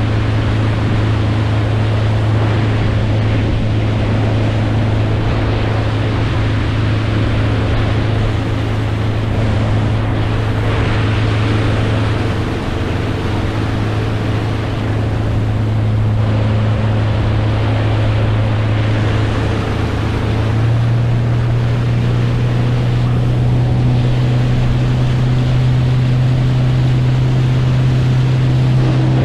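Boat engine running steadily under way, a constant hum with wind and water rushing past. About two-thirds of the way through, the engine's pitch steps up slightly as the throttle is opened a little.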